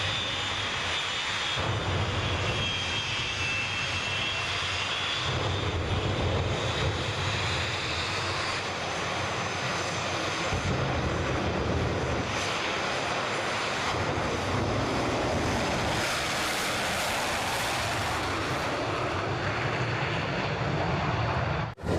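Jet engine of a jet-powered drag vehicle running, a steady jet noise. Over the first several seconds a high turbine whine sits on top of it and eases a little lower. The sound drops out briefly near the end.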